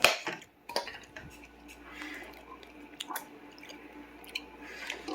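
Someone eating a bowl of fruit in coconut water: soft wet chewing with a few scattered sharp clicks of a spoon against the bowl, the loudest right at the start.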